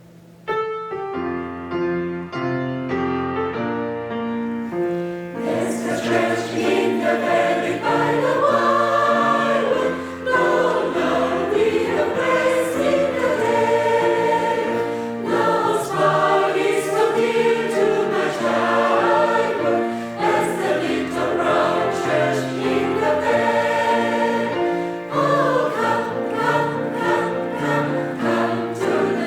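A choir sings a Christian song with instrumental accompaniment. It opens with a short instrumental introduction of separate held notes, and the voices come in about five seconds in.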